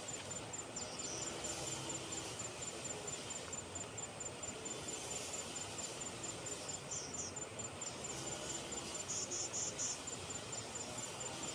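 Insects, likely crickets, chirping in a steady high pulse of about four or five chirps a second. A few short, louder high trills come from another insect, about a second in, around seven seconds in, and near nine to ten seconds.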